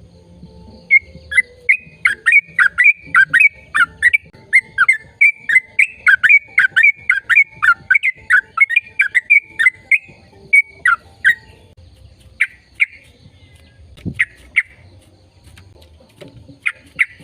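A bird calling: a long, loud run of quick, repeated downward-sweeping notes, about three a second, that breaks off into a few single notes. A brief low thump comes in among the single notes.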